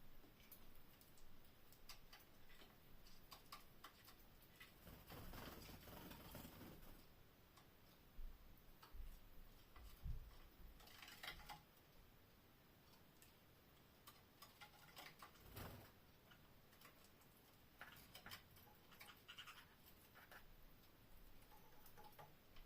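Faint, scattered ticks and scratches with a few brief rustles, from canaries moving about and pecking in their cage.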